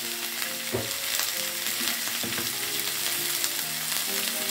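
Green beans and quail eggs sizzling steadily in hot oil in a stainless steel pot, with ground spice paste just added on top.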